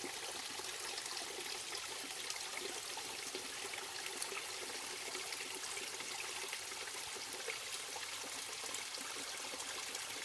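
Mountain stream flowing steadily, an even rush of water with fine splashing throughout.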